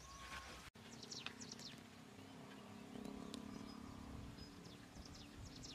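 Faint outdoor ambience with several short, high, falling chirps from small birds over a low steady hum.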